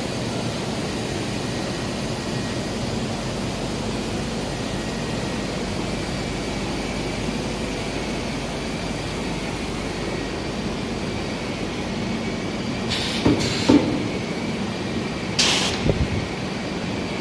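Rubber extrusion and microwave hot-air curing line running with a steady machine hum and hiss, with a few short knocks about three-quarters of the way through.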